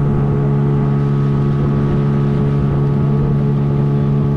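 A boat's outboard motor running at a steady speed, a constant drone that holds the same pitch throughout.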